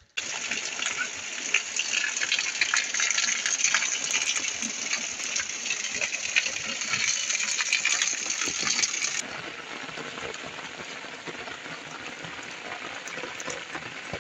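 Heavy rain pouring down and pattering on wet paved lanes and walls, a dense hiss of countless drops. About two-thirds of the way through it drops suddenly to a softer, steadier rain hiss.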